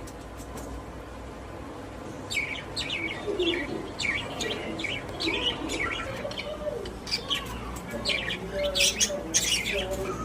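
Pet budgies chirping and warbling. Short high chirps begin about two seconds in, with wavering lower calls beneath, and they grow busier toward the end.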